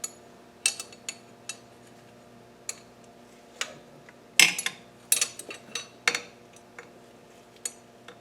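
Light metallic clicks and clinks of hand tools and bolts handled on the engine, a dozen or so irregular taps, the loudest about four and a half seconds in, over a faint steady hum.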